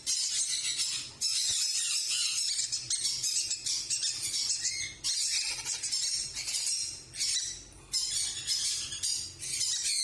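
Monk parakeets chattering with harsh, rasping squawks in dense bursts, broken by short pauses a few times.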